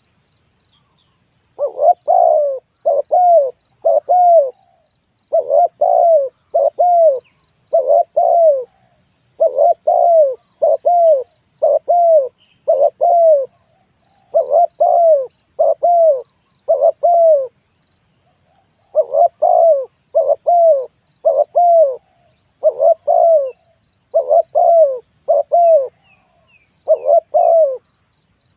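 Spotted dove cooing: short, low, arched coos in groups of two to four, the groups repeating steadily, starting about two seconds in. Faint high chirps of small birds behind.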